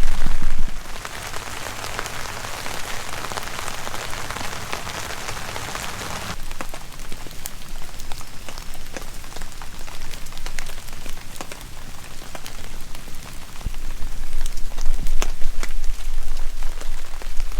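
Steady rain falling, a dense patter for the first six seconds, then lighter with many scattered sharp taps of single drops. A low rumble comes up near the end.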